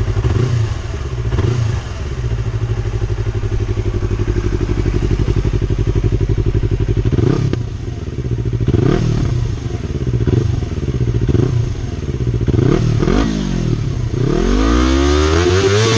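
Yamaha R25's 249 cc parallel-twin through an Akrapovic slip-on exhaust with the catalytic converter still fitted: idling steadily, then given a string of quick throttle blips about halfway through, and near the end revved up and held high.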